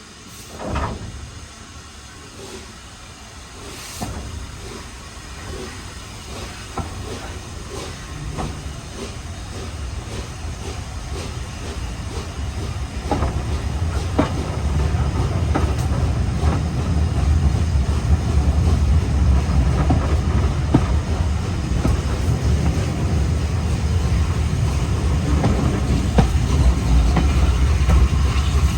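Train running on rails, its low rumble growing steadily louder, with clicks of wheels over rail joints and some hiss.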